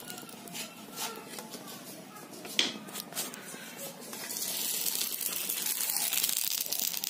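Sago papads frying in hot oil: a hissing sizzle with small crackles that grows louder about four seconds in. A sharp knock comes about two and a half seconds in.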